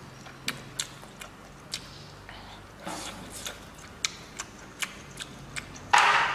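Close-miked eating sounds: chewing with a string of sharp, wet mouth clicks, then a louder bite into a skewered meatball near the end.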